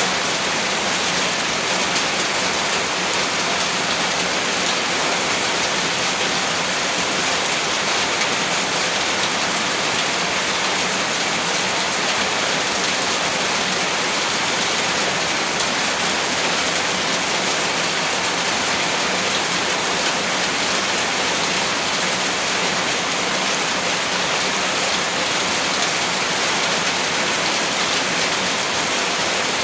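Heavy rain falling steadily, a dense even hiss of drops hitting a surface with no let-up.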